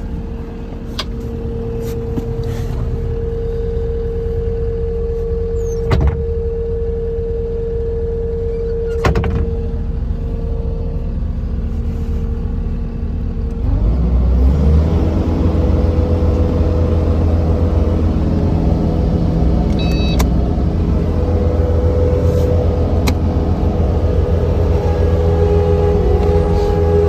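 Kubota SVL-95 skid steer's V3800 diesel engine running with a steady whine, with two sharp knocks in the first half. About halfway through the engine speeds up and then holds at the higher speed, louder than before.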